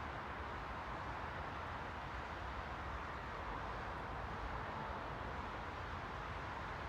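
Steady white-noise ambience: an even, unchanging hiss with a low rumble beneath it.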